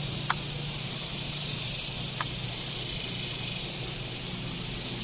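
Steady hissing hum of a large honeybee colony, with a couple of faint clicks.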